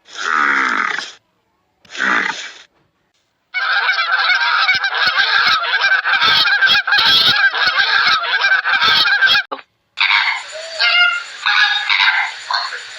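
Animal calls: two short separate calls in the first few seconds, then about six seconds of many loud calls overlapping, then a different run of shorter calls near the end.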